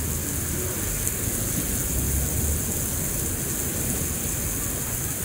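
Heavy rain falling steadily onto pavement and standing water, with a low rumble underneath.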